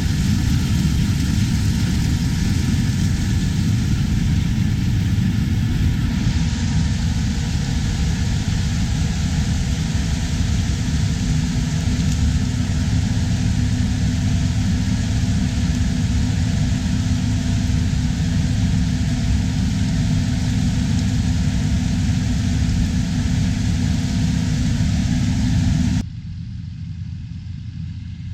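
Harvest machinery engine running steadily under load, a dense low rumble with a faint steady hum. About two seconds before the end it drops abruptly to a quieter, thinner engine sound.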